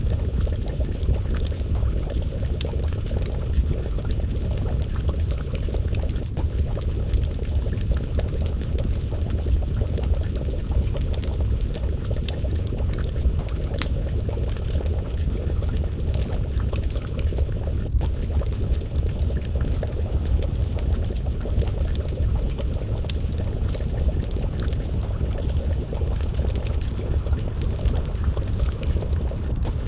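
Wood fire crackling with many small, irregular pops over a steady low rumble, together with a pot of stew simmering and bubbling over the flames.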